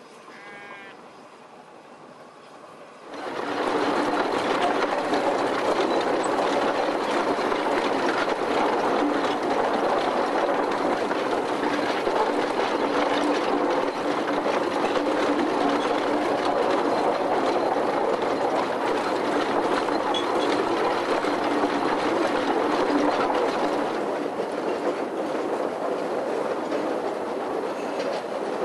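Narrow-gauge train running: a loud, steady rumble with a constant low tone that starts suddenly about three seconds in, after a quiet stretch with a few faint high chirps.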